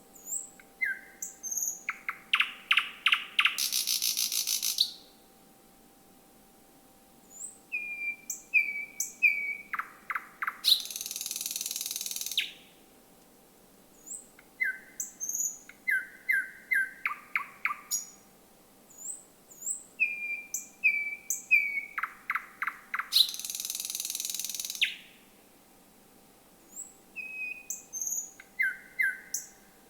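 Thrush nightingale singing at night in repeated phrases, with pauses of about two seconds between them. Each phrase has short sharp notes, a run of rapid clicking 'trott' notes, and a long buzzing rattle lasting about two seconds. A faint steady hum runs underneath.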